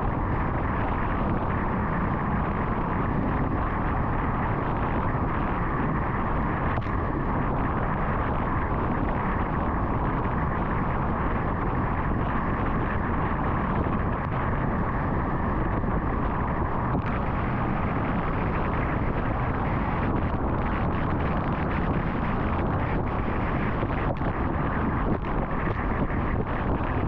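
Steady road and wind noise of a car cruising on an interstate highway, with a few faint ticks in the latter part.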